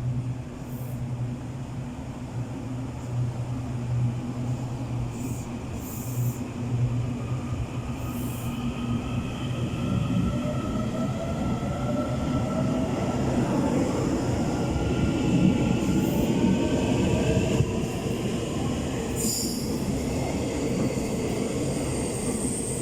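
Taiwan Railways EMU800 electric multiple unit pulling away from the platform. A steady low hum gives way, about ten seconds in, to several tones rising in pitch over the wheel-and-rail rumble as it accelerates, with a few brief high squeaks.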